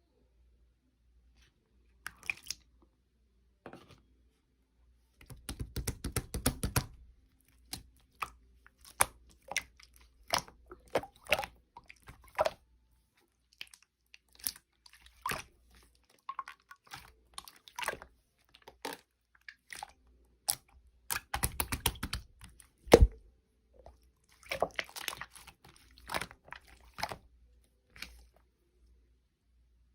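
Colourless clear slime being squeezed and pressed by hand, giving irregular clusters of crackling clicks and small pops, with one sharper pop a little past the three-quarter mark.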